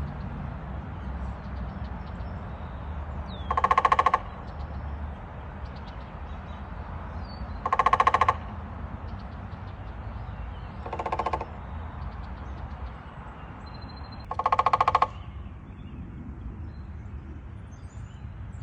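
Woodpecker drumming on a hollow tree trunk that rings like a sounding box: four short, fast rolls of strikes, each about half a second long, repeated every three to four seconds, over a steady low background rumble.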